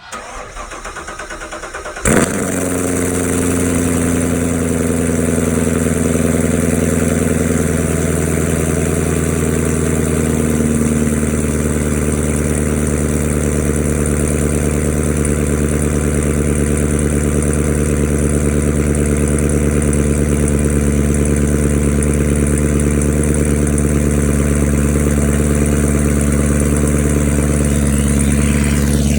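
Chevrolet Camaro SS 6.2-litre LT1 V8, breathing through Texas Speed 2-inch headers and an X-pipe into the factory NPP exhaust, cranks for about two seconds, catches with a sharp bark, then settles into a steady idle.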